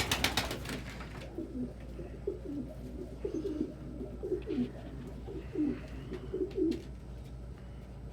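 Domestic pigeons cooing: a series of low, repeated coos. They follow a short burst of rapid fluttering right at the start.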